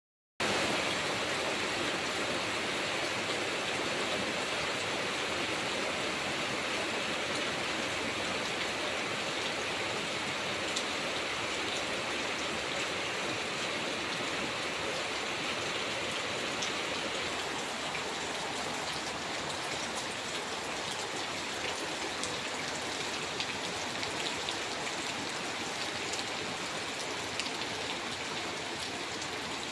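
Steady rain falling, an even hiss with scattered sharper drip ticks, easing slightly about halfway through.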